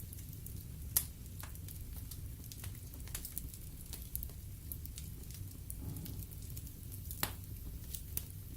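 Wood fire burning in a fireplace: logs crackling with scattered sharp pops over a steady low rumble of the flames, with louder pops about a second in and about seven seconds in.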